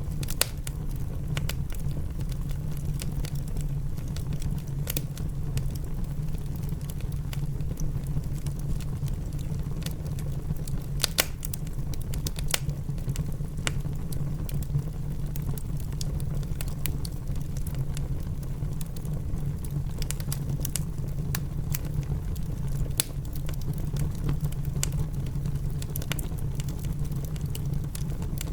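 Wood fire crackling in a fireplace, with scattered sharp pops over a steady low rumble, mixed with rain.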